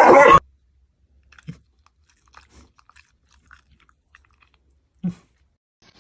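A loud, brief noisy burst at the very start, then faint crunching and clicking like chewing, with a soft low thump about a second and a half in and another near the end.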